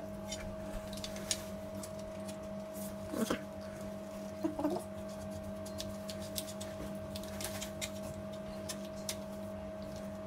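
Small clicks and rattles of hands working on a bicycle's handlebar, grip and cables, over a steady electrical hum. A short voice sound comes about three seconds in and again a little after four seconds.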